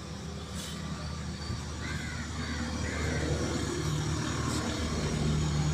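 Honda City's engine idling, a steady low hum that grows louder in the second half as the exhaust comes near. A few short higher calls sound about two seconds in.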